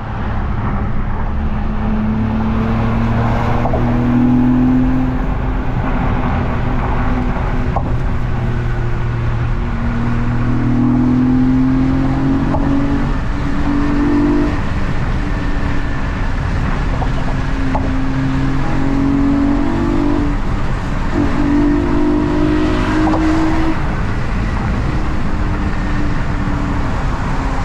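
Car engines running, with steady tones that shift in pitch every second or two.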